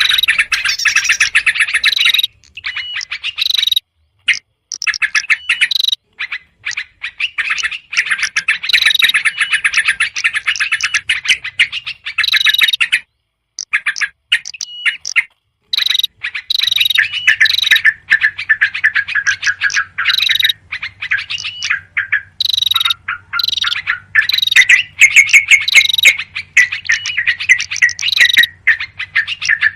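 Yellow-vented bulbuls chattering noisily in fast, scolding runs of notes, mixed with other small birds, as used in a bird-lure recording; the chatter breaks off briefly a few times.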